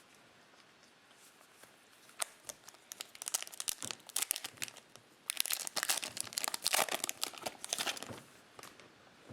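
Foil wrapper of a Topps Chrome trading-card pack crinkling and tearing open. Scattered crackles start about two seconds in and build into a dense crinkle that stops a second before the end.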